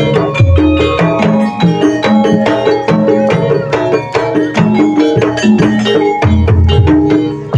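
Loud traditional Javanese ebeg (jaranan) accompaniment music: quick hand-drum strokes under repeating metallic melodic percussion, with a low bass note recurring.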